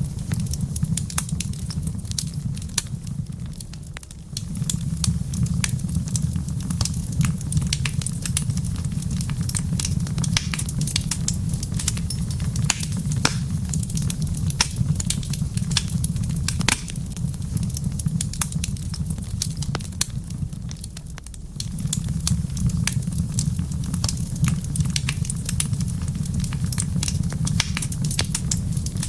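Wood fire crackling in a fireplace: irregular sharp pops and snaps over a steady low rumble. The low rumble fades out briefly twice.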